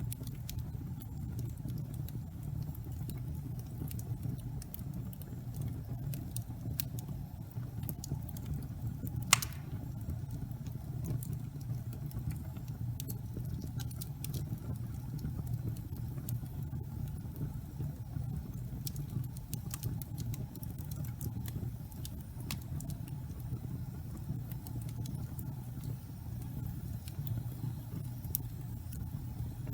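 Wood fire burning in a fireplace: a steady low rumble of the flames with scattered small crackles and pops, and one louder crack about nine seconds in.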